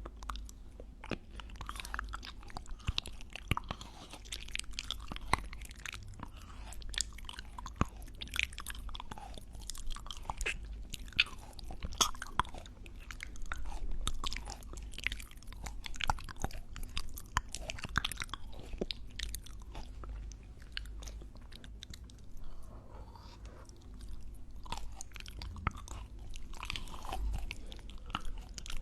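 Close-miked ASMR chewing and mouth sounds: a dense, irregular run of wet clicks and sharp little pops.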